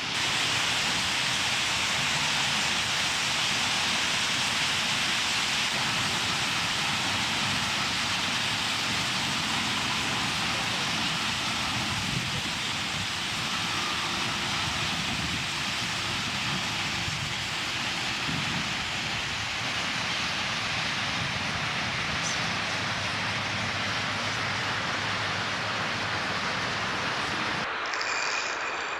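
Steady, dense din of a huge roosting flock of purple martins chattering together, with a low rumble like traffic beneath it. The sound changes abruptly near the end.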